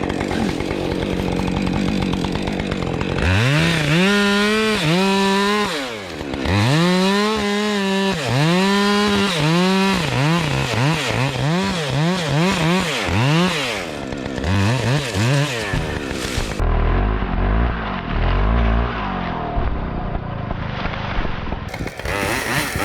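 Chainsaw cutting into a tree, revving up and easing off again and again as it works through the cut. Near the end a heavy low rumble takes over for about five seconds.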